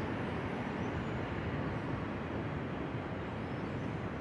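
Steady low rumble of train noise on a railway station platform, even throughout with no distinct knocks or signals.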